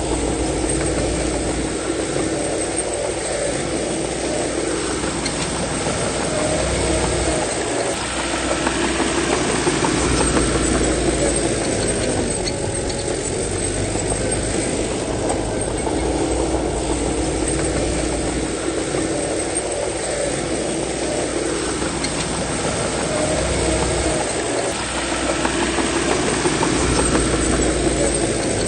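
Bulldozer's diesel engine running continuously under working load. Its pitch sags and recovers several times, at intervals of several seconds.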